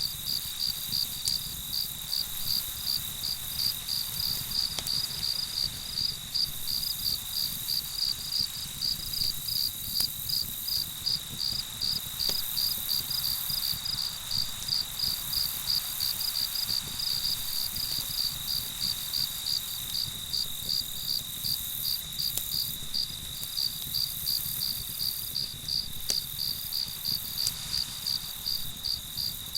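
Crickets chirping in an even rhythm, about two to three chirps a second, over a continuous high insect trill, with an occasional faint crackle from a campfire.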